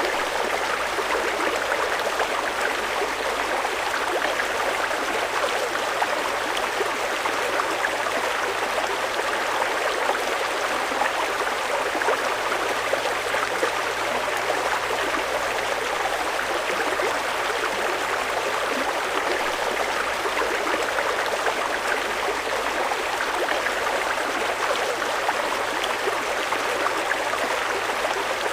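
Fast-flowing river water rushing steadily over rocks, an even, unbroken wash of noise.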